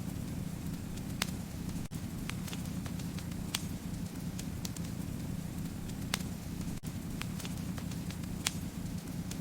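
Fireplace fire burning: a steady low rush of flames with sharp crackles and pops, the loudest coming about every two to three seconds.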